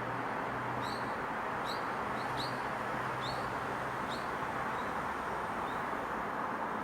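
Steady hiss of wind and neighbourhood background noise with a faint low hum, while a small bird gives a run of about six short, high chirps in the first four seconds, then a few fainter ones.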